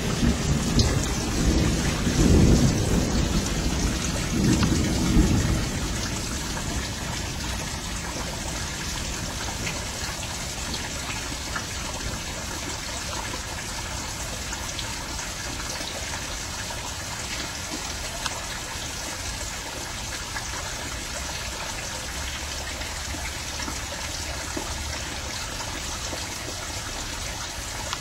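Steady heavy rain falling, with thunder rumbling in a few rolling surges during the first five seconds or so before it fades. The rain then carries on evenly.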